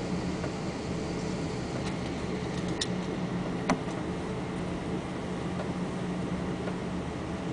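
Steady drone of a Boeing 777-300's engines and air conditioning heard inside the passenger cabin, an even hum with a low steady tone. Two small clicks come close together near the middle.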